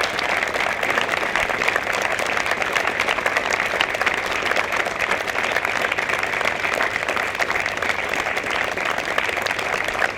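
Applause from a gathered crowd of many people clapping, steady and sustained throughout.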